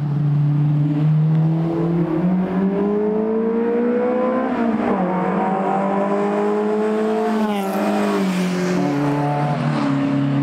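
Two Fiat Ritmo Abarth 130TCs, one a Group A-tuned car, running side by side at full throttle, their twin-choke Weber-carburetted four-cylinder engines climbing in pitch, with a sudden drop for a gear change about five seconds in. They climb again and then fall in pitch as they pass close by.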